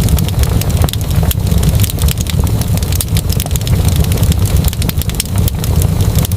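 Wood fire crackling, with a steady run of sharp pops and snaps over a continuous low rumble.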